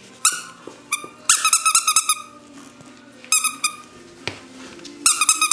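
Chocolate English Labrador puppy yipping in several quick runs of short, high-pitched barks.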